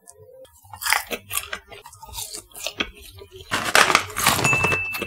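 Close-miked eating of latiao, spicy wheat-gluten snack strips: irregular crisp, wet chewing crunches, then a louder, denser stretch of crunching and rustle about three and a half seconds in as the strips are tipped from the bag into the mouth.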